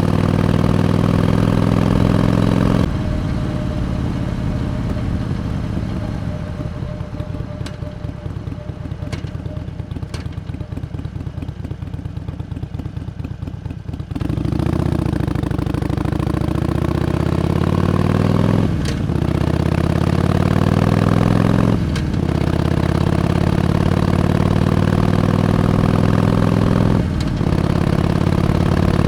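Harley-Davidson Iron 883's air-cooled 883 cc V-twin on the road. It pulls under throttle until about three seconds in, then runs on a closed throttle, quieter and slowing, until about halfway. It then accelerates again with rising pitch through three upshifts, each a brief dip in sound.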